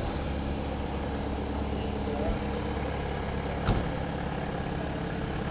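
An engine idling steadily, with a single sharp click about three and a half seconds in.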